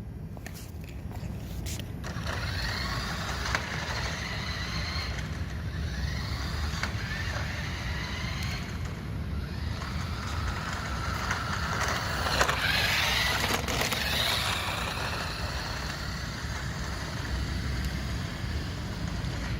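A vehicle's engine running with a steady low rumble and a faint whine, growing louder about twelve seconds in and easing off again about two seconds later.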